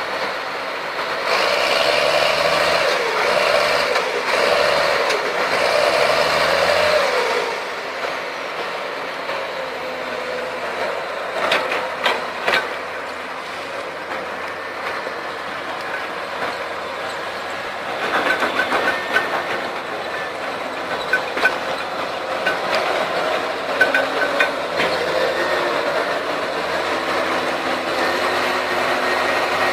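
Diesel engines of heavy tracked machinery, an excavator and a bulldozer, working hard during a recovery from mud. The engine and hydraulic pitch wavers under load for the first several seconds, then settles to a steadier run. Scattered metal knocks and clanks come later on.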